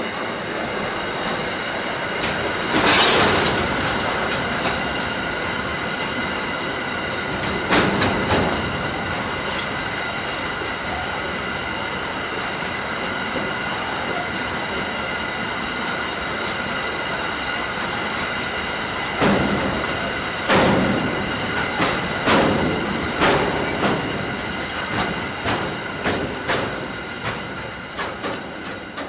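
SCT intermodal freight train's container wagons rolling past: a steady rumble of steel wheels on rail with a high steady ringing over it, and loud clacks as wheels cross rail joints, coming about once a second in the last third. The sound fades at the very end as the last wagon goes by.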